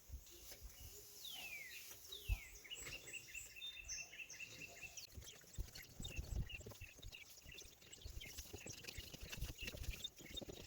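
A songbird calling: two quick falling whistles, then a run of short, rapid repeated high notes, fainter again later on. Low thuds and rumbles sound beneath it.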